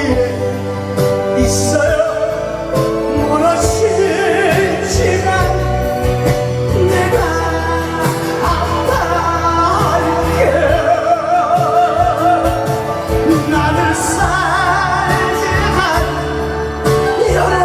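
A singer holding long, wavering notes with wide vibrato over amplified backing music with a steady bass line, from a live stage performance.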